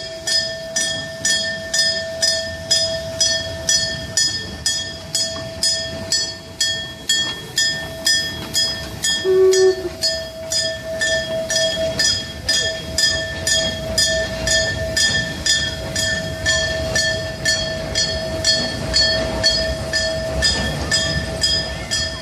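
Railway warning bell ringing in an even, steady rhythm of about two strikes a second, each strike ringing on and fading, as at a level crossing on a railway line.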